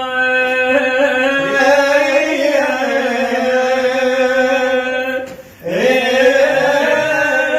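Male voice chanting a mournful Iraqi Shia nai (lament) in long drawn-out held notes. There is a short break for breath about five and a half seconds in, then another long note.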